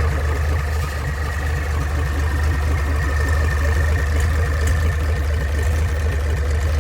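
Hino H07D inline-six diesel engine idling steadily, a low even drone with regular firing pulses and a thin steady whine above it.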